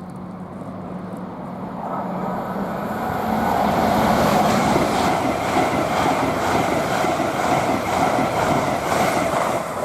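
LNER Class 801 Azuma electric express train passing along the main line, its noise building over the first few seconds and then staying loud as the carriages go by.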